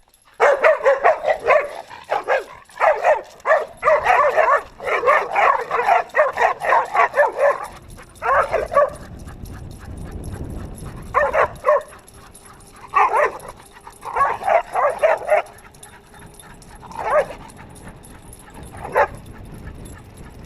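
Dogs yipping and whining excitedly in rapid, near-continuous strings, then in shorter separate bursts after about eight seconds.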